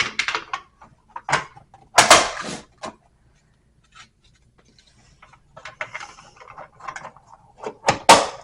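Plastic covers being pressed and snapped onto a metal TV wall mount: scattered clicks and knocks of plastic on metal, with a louder rattling snap about two seconds in and a sharp click near the end.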